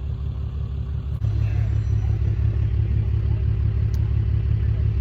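Truck engine running with a steady low pulsing, working the hydraulic arms of a Cannonball bale bed as it loads a hay bale, with a faint steady hydraulic whine over it. About a second in the engine gets louder.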